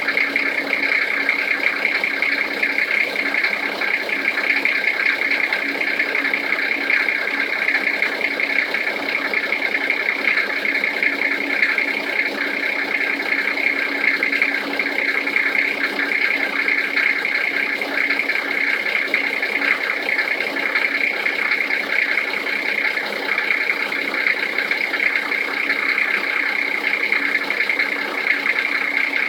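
Toyota 1HZ inline-six diesel engine running steadily while cold, with a knock from the engine that is the subject of the recording.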